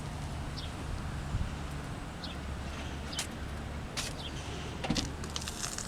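A few sharp clicks and knocks over a low steady rumble of handling and outdoor noise, with some short faint high chirps.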